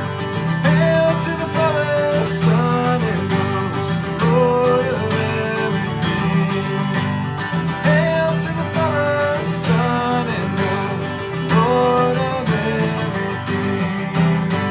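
Acoustic guitar strummed in a steady rhythm, with a melodic phrase repeating every few seconds over the chords.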